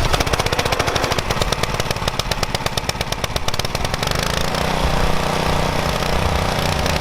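Small gas engine of a pressure washer running with rapid, evenly spaced firing pulses, settling into a steadier pitched running note about four seconds in.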